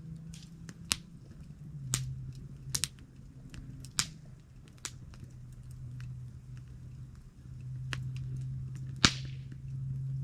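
Wood campfire crackling, with a string of sharp pops and snaps from the burning wood; the loudest pop comes about nine seconds in. A steady low hum runs underneath.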